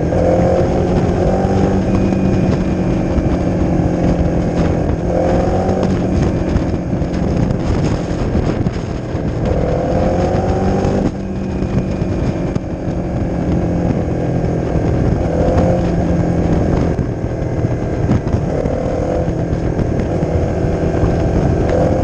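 Honda CRF250's single-cylinder four-stroke engine running through a Leo Vince aftermarket exhaust while riding, with a steady low drone and short rises and falls in pitch every few seconds as the throttle opens and closes.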